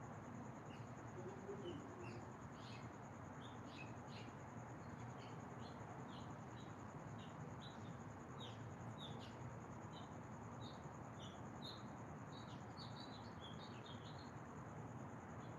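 Faint birdsong: many short, high chirps and twitters coming quickly one after another, thickest in the second half, over a steady background hiss and a thin, steady high-pitched tone.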